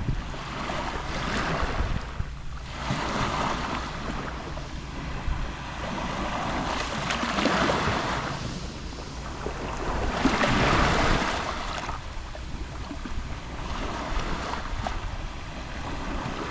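Small sea waves lapping on the shore, each wash swelling and ebbing every few seconds, with the largest about ten seconds in, over a low wind rumble on the microphone.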